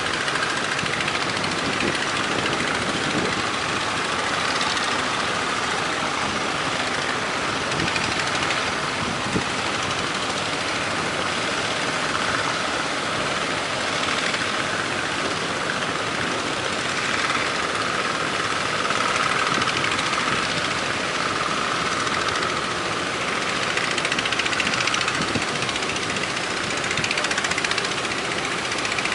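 Steady engine noise of motorised fishing boats, mixed with a continuous rushing haze of wind and surf.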